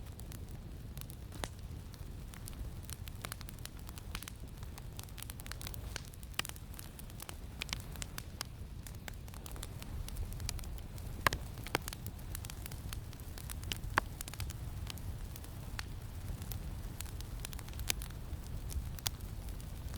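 Campfire crackling, with scattered sharp pops, a few louder ones, over a steady low rumble of wind.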